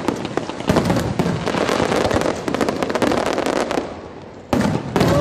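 Fireworks display: a dense barrage of bangs and crackling from many shells bursting close together. The barrage thins out about four seconds in, then another loud burst comes near the end.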